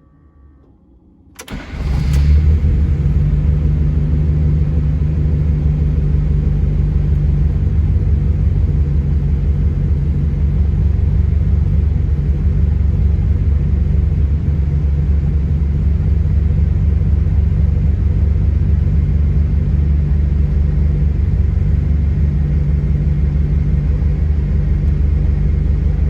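Lancia Delta 1600 GT i.e.'s 1.6-litre fuel-injected four-cylinder engine on a cold start. It cranks and catches about a second and a half in, then runs steadily at idle.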